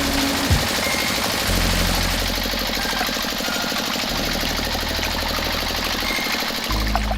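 A small engine or motor running steadily with a fast, even pulse, its low hum shifting in strength a few times.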